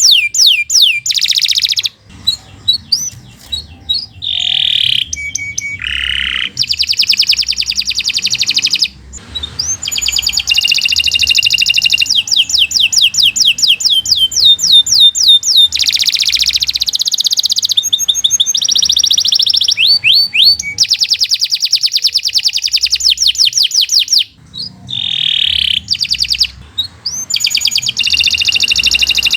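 Domestic canary singing a long, fast song: rapid trills of repeated high notes in quick runs, changing from phrase to phrase, with brief breaks about two, nine and twenty-four seconds in.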